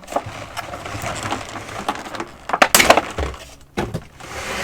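Clear plastic egg carton being pried open by hand: the thin plastic crinkles and crackles, with a loud run of cracks a little before three seconds in and a sharp snap about a second later.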